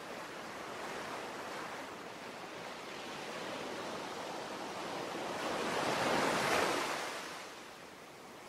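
Ocean waves washing in, a steady rush of surf with one wave swelling up loudest about six seconds in and then falling away.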